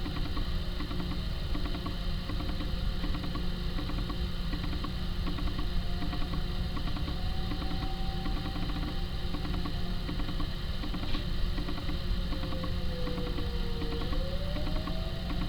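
Federal Signal 2001-SRNB outdoor warning siren sounding its attack signal, heard faintly through a school building: a thin tone that slides slowly down in pitch and then rises again near the end. It sits under a steady low rumble and a regular ticking pulse about twice a second.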